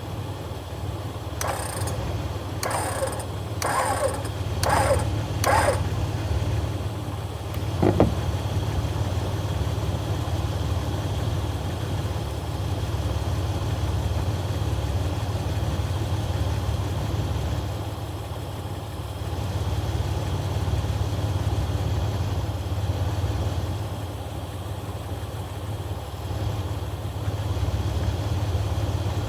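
Jeep engine idling steadily. Five short, sharp bursts come about a second apart in the first six seconds, and a single sharp click follows near the eighth second.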